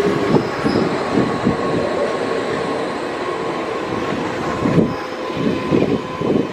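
Kintetsu Kyoto Line electric train moving along the platform. Loud, rough wheel-on-rail noise with a faint steady whine underneath.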